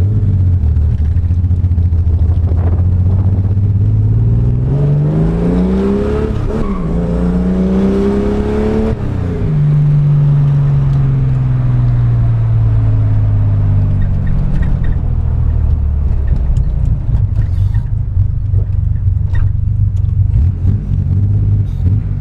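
Chevrolet Caravan's naturally aspirated straight-six on a Weber carburettor, loud, idling. From about four seconds in it is revved up smoothly for about five seconds, then the throttle is let off and the revs fall back over several seconds to a steady idle.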